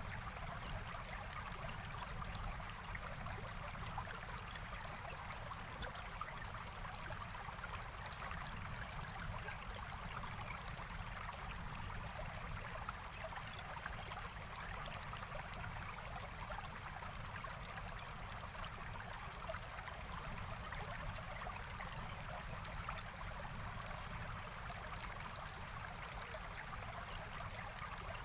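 Forest stream flowing steadily, an even rush and trickle of water.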